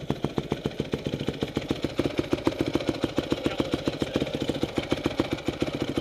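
2004 Honda CRF250R's single-cylinder four-stroke engine idling steadily with a rattle, which the owner thinks might be the crankshaft in the bottom end.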